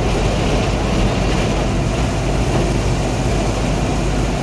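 Heavy vehicle engine running steadily with a low hum, as the machine pulls a truck out of a river.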